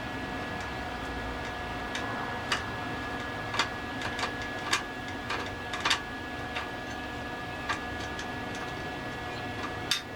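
About a dozen irregular sharp clicks and light knocks over a steady hum with a thin, high steady tone.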